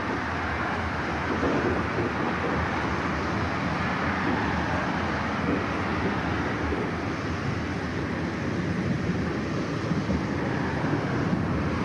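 Steady running noise of a steam-hauled train of replica vintage carriages, heard from on board as it rolls along the track, mixed with road traffic passing alongside.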